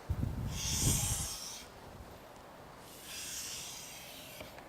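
Metal bench plane shaving wood in two strokes, each a hissing swish: the first heavier, with a low rumble as the plane starts the cut, the second lighter about three seconds in.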